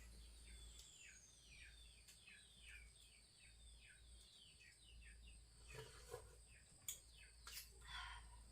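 Faint bird calls: a quick run of short chirps, each falling in pitch, about three or four a second, that thins out after about five seconds. A steady high thin whine, typical of insects, runs under it, and a few soft clicks come near the end.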